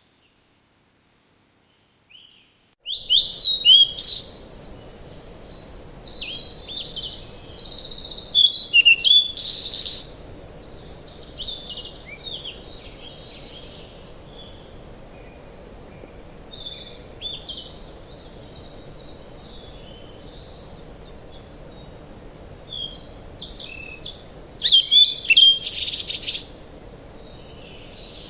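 Wild birds singing and chirping in a busy, overlapping chorus over a steady background hiss. After a nearly silent opening with a few faint chirps, the chorus comes in suddenly about three seconds in, with louder bursts of calls near the start and again near the end.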